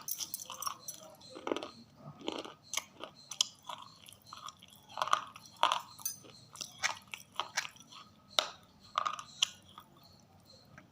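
Close-up biting and chewing of a brittle, crunchy substance: irregular sharp crunches and crackles, several a second, as pieces are bitten off and ground between the teeth.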